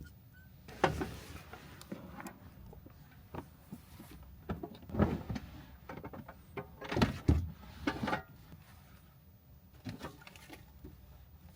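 Irregular knocks, clicks and rustling from objects being handled inside a small van's cabin, in scattered clusters with a few louder knocks around the middle, over a low steady background.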